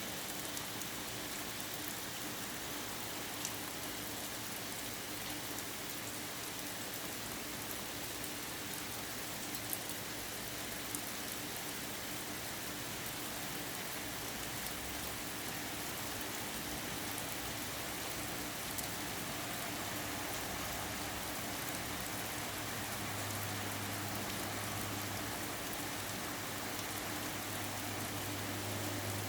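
Steady rain shower falling on surfaces, an even hiss with scattered sharp drop ticks. A low steady hum rises under the rain over the last several seconds.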